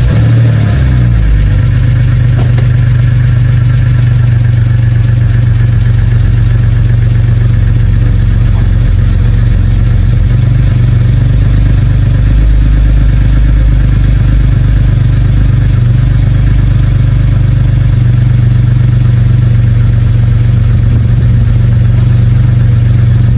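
BMW E90 330i's N52 straight-six running steadily just after starting, on its first start after two months sitting; the note settles within the first second or so, then holds an even idle.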